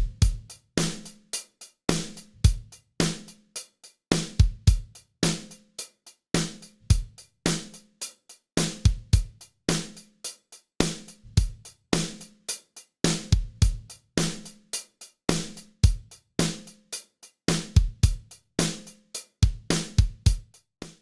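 Drum kit groove with kick, snare, hi-hat and cymbals, played through a Fairchild 670 tube compressor plugin emulation. The repeating beat stops just before the end.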